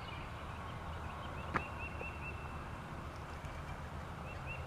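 A bird gives quick runs of short, high chirps, about five or six a second, twice, over a steady low rumble. One sharp click comes about one and a half seconds in.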